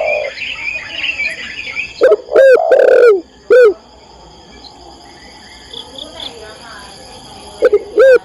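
Spotted dove (tekukur) cooing, given as a female calling a male: a phrase of two short coos, a longer drawn-out coo and a final short coo about two seconds in, and the same phrase starting again near the end. Fainter chirps of small birds sound in between.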